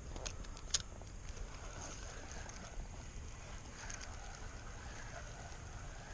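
Wind rumbling on the microphone aboard a fishing kayak, with a few light clicks in the first second.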